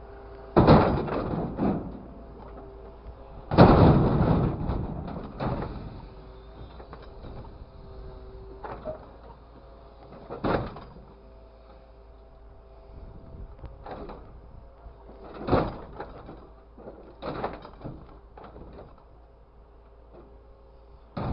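An irregular series of sharp knocks and bangs, about ten in all, the loudest about three and a half seconds in, over a faint steady hum.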